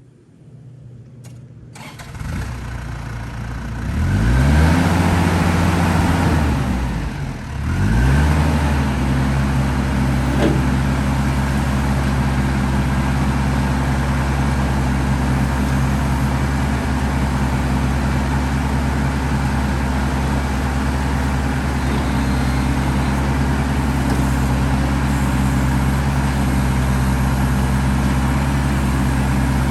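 New Holland TC45DA tractor's diesel engine starting about two seconds in, revving up and down twice, then settling into a steady idle.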